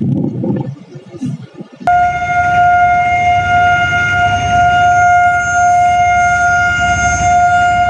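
A loud, steady tone at one unchanging pitch starts abruptly about two seconds in and is held, over a low rumble.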